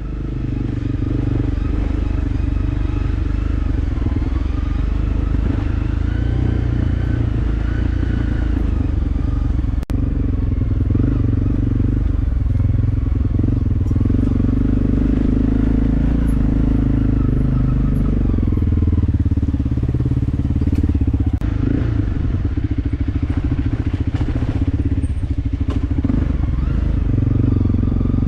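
Motorcycle engine running under way, its pitch rising and falling gently with the throttle over a steady low rumble.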